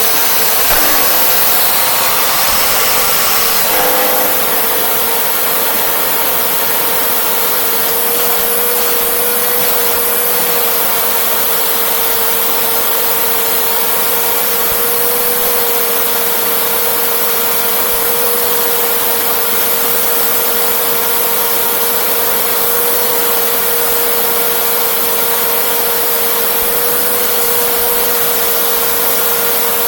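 Hoover Rewind Plus (UH70140) upright vacuum cleaner running steadily: a constant motor tone over a loud hiss.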